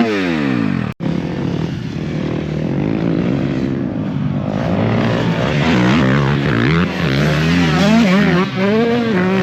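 Motocross dirt bike engines on the track. Right at the start one passes close and its pitch drops steeply. After a sudden brief cut about a second in, the engines rev up and down repeatedly as the riders work through the track.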